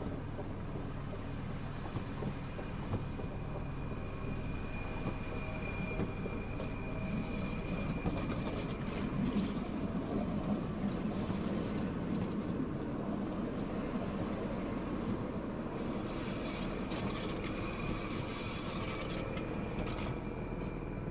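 Rhaetian Railway Capricorn electric multiple units rolling along the station track: a steady rumble of wheels on rail with scattered clicks. A faint high-pitched whine comes in for a few seconds early on and again near the end.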